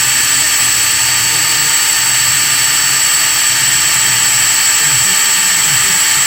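Electric drill running steadily under load with a constant high whine, drilling into a seized EGR bolt to work it loose.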